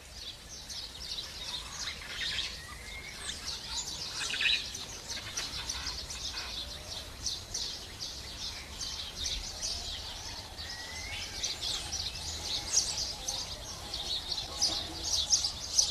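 Birds chirping in a dense, continuous chorus of short high chirps, with an occasional brief rising whistle.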